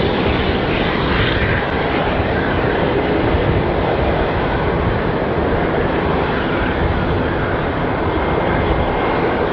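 Airbus A340-300's four jet engines at takeoff power: a loud, steady rumble with no break or change.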